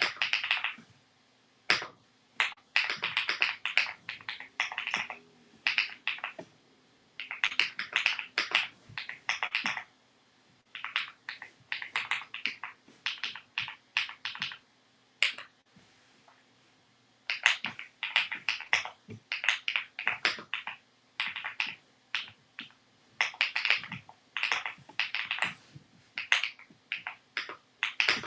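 Typing on a Rainy 75 mechanical keyboard: quick runs of key clacks lasting a second or two, broken by short pauses.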